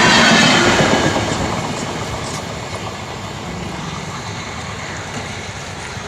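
Indian Railways LHB coaches running over the track, wheels clattering on the rails; loud at first, then fading over the next couple of seconds and settling to a steadier, quieter rumble.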